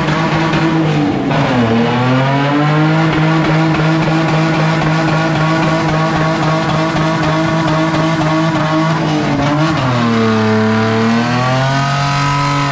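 BMW E30's engine held at high revs during a burnout, with the tyres spinning and squealing. The revs dip and climb back twice, about a second and a half in and again around ten seconds in.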